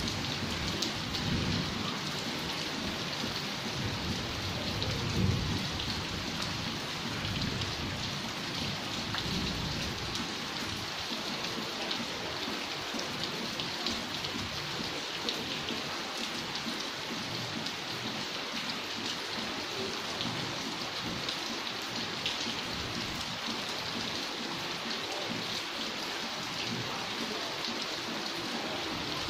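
Steady rain falling, a dense even hiss with scattered ticks of single drops. A low rumble runs under it for the first third and fades away.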